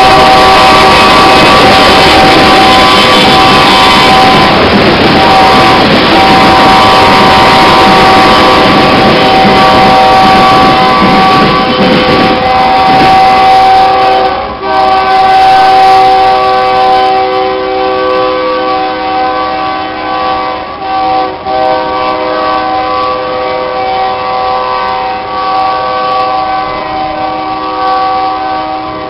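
Union Pacific freight train passing, its covered hopper cars rumbling by until about 13 s in. Over it the locomotive's air horn sounds a chord of several notes, held almost unbroken and still going after the train has cleared.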